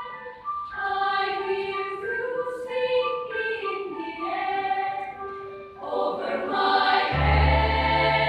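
Children's choir singing, with a short break near the start and another just before the final phrase, which comes in fuller and louder; a deep sustained low note enters under it near the end.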